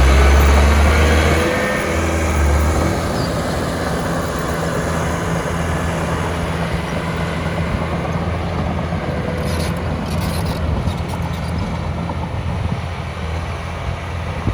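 Heavy diesel engine of earthmoving machinery running. Its deep note drops about a second and a half in, then carries on steadily.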